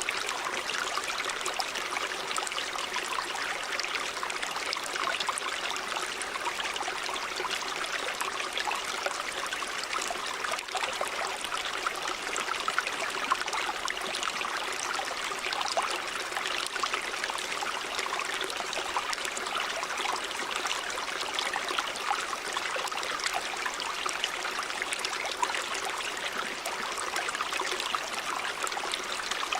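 River water running steadily over rocks, a continuous rush with fine splashing and trickling.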